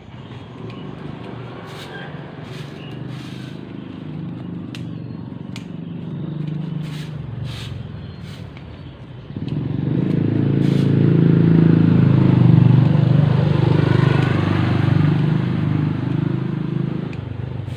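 A motor vehicle engine running with a steady low hum, which jumps suddenly louder about nine seconds in and eases off near the end, with scattered sharp clicks over it.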